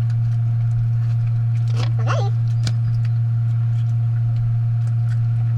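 A loud, steady low hum throughout, with a few faint clicks and a brief faint pitched sound about two seconds in.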